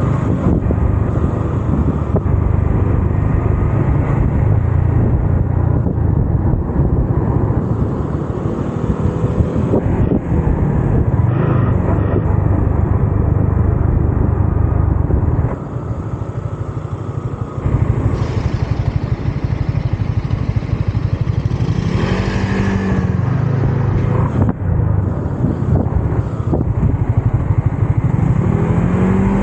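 Yamaha MT-15's single-cylinder engine and exhaust running under way, with wind rushing past. A little past halfway the engine eases off and goes quieter for about two seconds, then pulls again.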